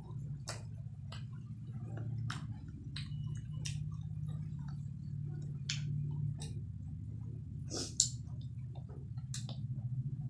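Close-up chewing and wet mouth smacks of someone eating a fried chicken lollipop, with short clicks scattered throughout over a steady low hum. A sharp click about eight seconds in is the loudest sound.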